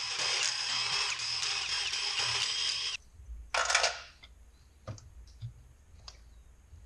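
A handheld power tool spinning bolts out of a 5R110W transmission's solenoid body: a steady high whine for about three seconds that cuts off suddenly, a short second burst half a second later, then a few light metallic clicks.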